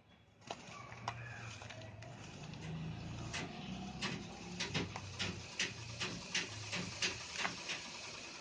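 Dried red sand shapes being smashed and crumbled: a crunching rustle that starts about half a second in, with a run of sharp crackles, two or three a second, through the second half.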